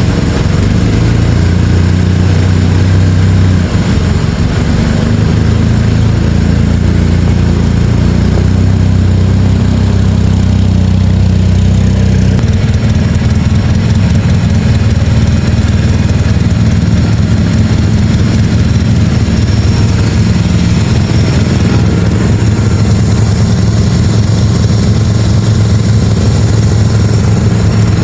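A four-wheeler and a lawn mower running together on a cold start, a steady close small-engine hum. The engine note changes about twelve seconds in.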